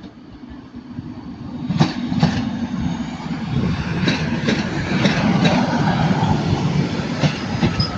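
Class 150 Sprinter diesel multiple unit pulling away, its diesel engine growing louder from about a second in, with repeated clacks as its wheels pass over rail joints.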